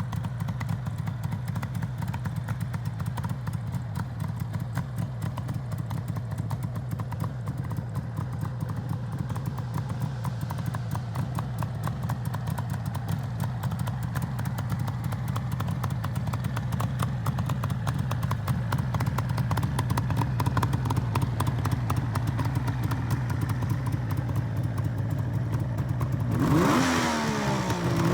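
Two-stroke three-cylinder motorcycle engine idling steadily, then revved twice near the end, its pitch rising and falling with each blip.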